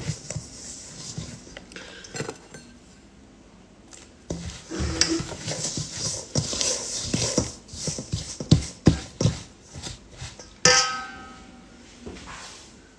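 Kitchen utensils and dishes knocking and clinking, with one louder clang near the end that rings briefly.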